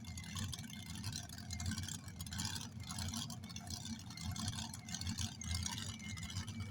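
Low, continuous engine rumble from a pulling vehicle, under a haze of outdoor noise.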